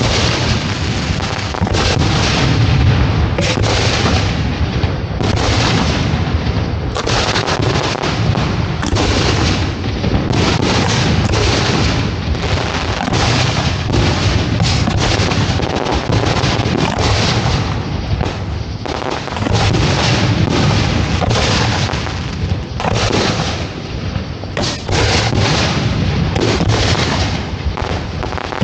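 Aerial fireworks going off close by in a dense, continuous barrage of booms and bangs, several a second and overlapping, with a heavy low rumble.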